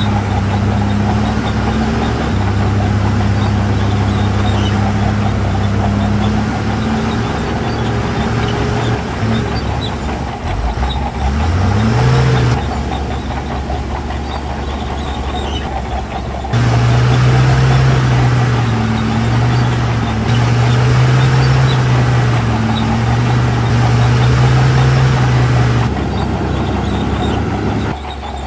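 Diesel engines of heavy earthmoving machines running steadily. About eleven seconds in the engine pitch rises briefly. Midway through, a louder, slightly higher engine note starts abruptly and wavers a little before it cuts off near the end.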